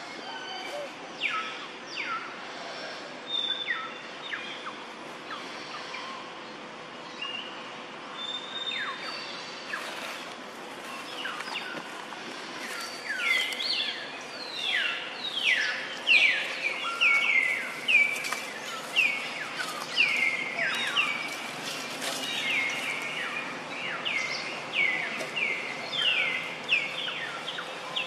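Birds calling: short, falling whistled notes repeated over and over, sparse at first, then louder and coming one or two a second from about halfway through. Under them is a steady outdoor hiss and a faint constant hum.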